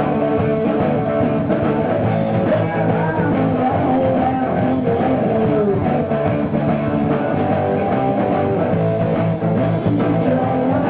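Live rock band playing with electric guitar to the fore, a melodic line bending up and down in pitch over a steady band backing.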